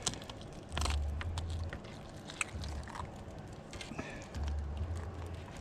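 Wet handling and knife sounds as a bream's gut is opened up and picked through: scattered soft clicks and squelches. Separate bursts of low rumble come and go.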